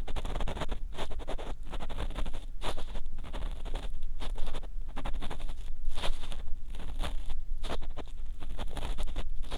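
Ear pick scraping and rubbing hard inside a binaural dummy head's silicone ear, close up: a run of quick, irregular scratchy strokes over a low rumble.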